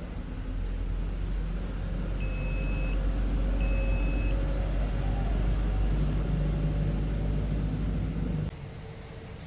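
Low, steady vehicle engine rumble that builds and then cuts off abruptly near the end, with two short electronic beeps about a second apart early on.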